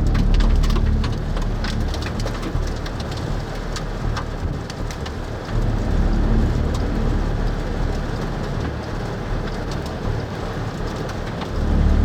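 Heavy rain striking the storm-chase vehicle, many sharp drop clicks over a steady wash of noise. A low rumble swells right at the start, again about six seconds in, and near the end.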